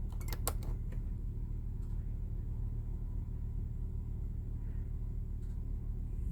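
Steady low hum of a running Cummins Onan 7.5 kW Quiet Diesel generator heard from inside the motorhome, with a few sharp clicks about half a second in.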